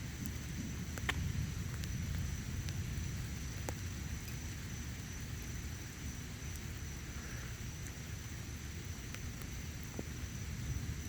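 Low steady rumble of a thunderstorm, with scattered small ticks of raindrops and a thin, steady high whine over it.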